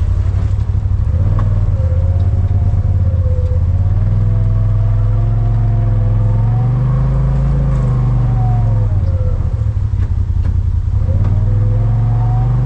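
Off-road vehicle's engine running steadily as it drives a dirt trail, its revs climbing about halfway through and dropping back a couple of seconds later.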